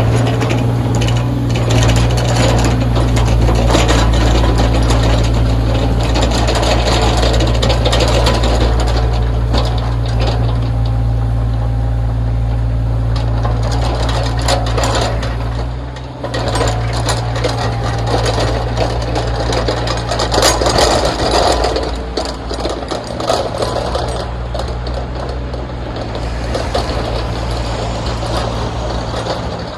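Backhoe's diesel engine running steadily under work, with clattering and scraping from the machine as it digs and spreads snow. The sound stops abruptly at the end.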